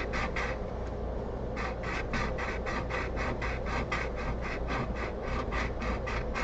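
Steel chisel pushed and pulled across a 600-grit sharpening stone, a scraping rub about three strokes a second. The strokes pause for about a second near the start, then carry on evenly.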